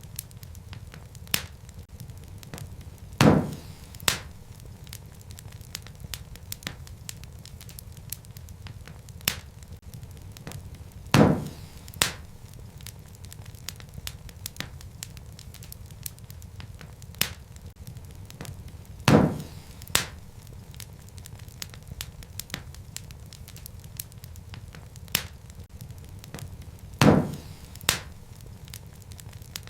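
Wood fire crackling in a fireplace: a steady low rumble of burning logs under constant small crackles, with sharper pops that come in pairs about every eight seconds.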